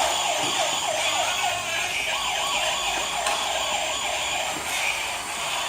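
Police siren wailing in a fast, repeating up-and-down sweep.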